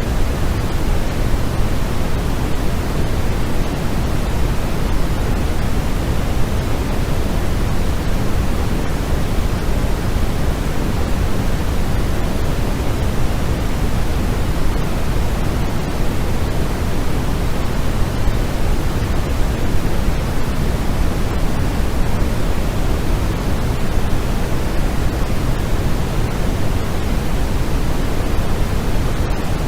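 Steady white-noise sleep track: an even, unchanging rush of noise, heavier in the low end than in the treble.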